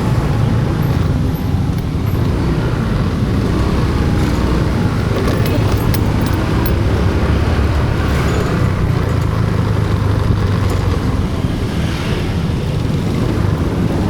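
Steady road-vehicle rumble, engine and road noise in motion, with a few light clicks about five to seven seconds in.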